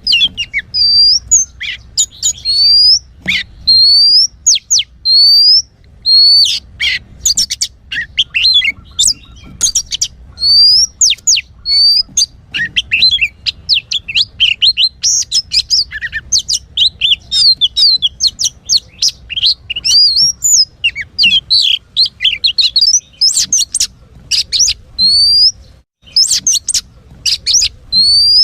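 Oriental magpie-robin (kacer) singing: a fast, varied run of whistles and chattering notes, with a rising whistle repeated several times.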